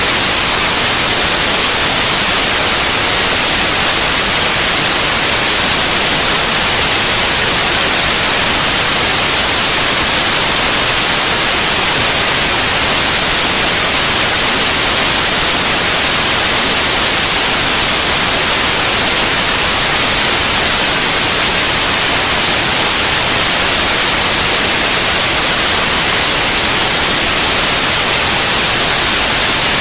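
Steady white noise: an even hiss with most of its energy in the highest frequencies, unchanging throughout, played as a sleep aid for babies.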